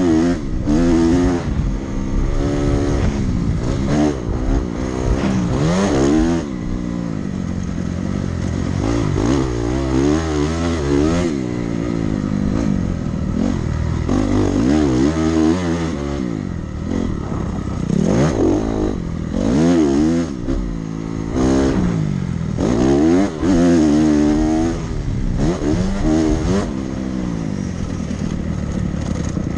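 Dirt bike engine being ridden hard: its pitch climbs and drops over and over as the throttle is opened, the gears are shifted and the throttle is rolled off for turns and jumps.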